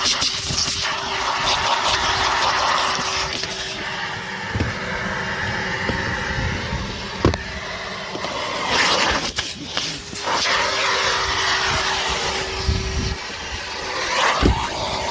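Numatic Henry HVR200-22 vacuum cleaner running with a steady motor whine and rushing suction, its nozzle scraping over surfaces, with sharp knocks about seven seconds in and near the end.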